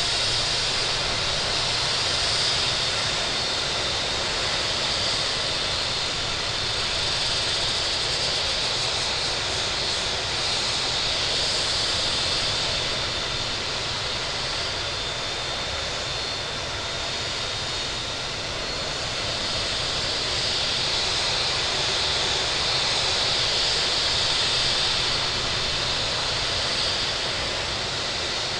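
Boeing 757-200 twin-engine jet airliner landing: a steady jet engine and airflow noise, with a high hiss that swells and eases a few times.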